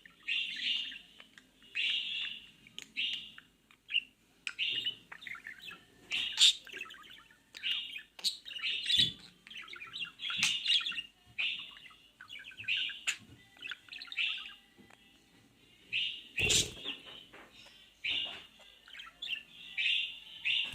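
A bird chirping in short repeated phrases, calling for a mate, with a couple of sharp thumps, the loudest about 16 seconds in.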